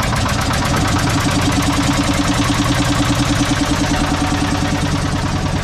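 Motorboat engine running steadily with a rapid, even throb.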